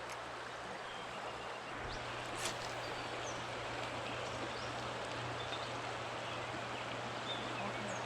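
Creek water flowing in a steady rush, with a few faint high chirps and one brief click about two and a half seconds in.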